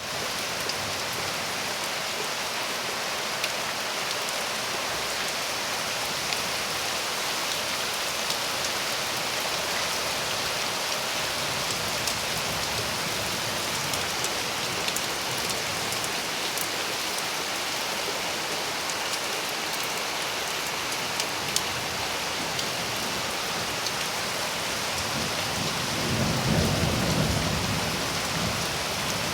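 Steady rain falling during a thunderstorm. A low roll of thunder swells up near the end.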